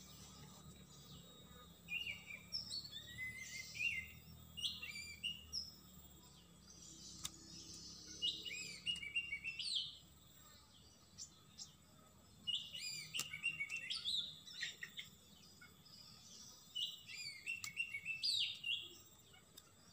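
A songbird singing in short phrases of quick, high chirping notes, a new phrase every few seconds.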